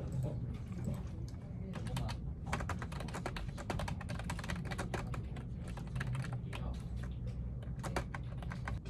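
Typing on a computer keyboard: quick key clicks, scattered at first and coming in a dense run from about two seconds in, over a low steady hum.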